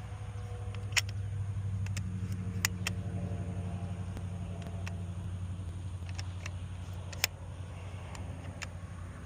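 A steady low rumble like a running engine, with a few faint sharp clicks or pops; the most distinct come about a second in, near three seconds, and near seven seconds.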